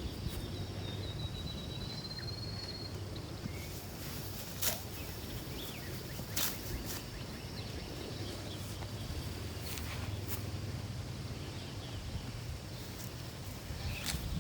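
Faint outdoor ambience: a steady low rumble, a thin high whistle rising slightly over the first few seconds, and a few light clicks.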